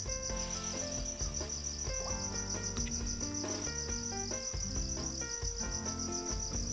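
Steady high chirring of crickets, pulsing evenly, over instrumental background music of held notes that change every half second or so.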